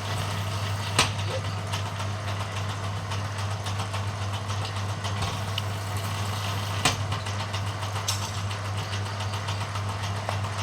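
Bamboo strip-thinning machine running steadily with a low hum while cutting bamboo into slanted rope strips. A few sharp clicks come through, one about a second in and two more later on.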